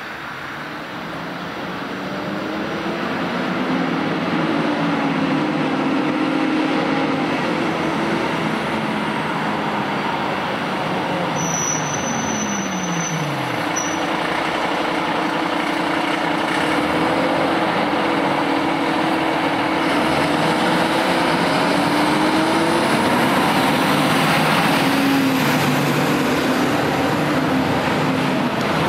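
Heavy fire trucks, a pump engine and an aerial ladder truck, driving by with their engines running. The sound grows louder over the first few seconds, and the engine pitch drops once, about halfway through.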